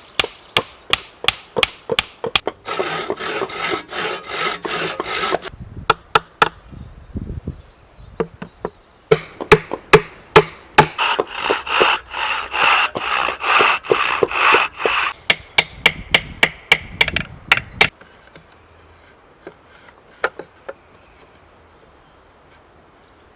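Hand woodworking: a quick, even run of wooden knocks, about three a second, with two long stretches of sawing or rasping on wood. The work stops a few seconds before the end.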